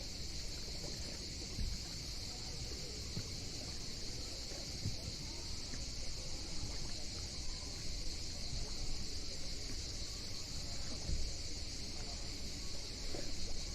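Small sea waves lapping and washing at the shore in an irregular churning wash, over a steady high-pitched buzzing hiss.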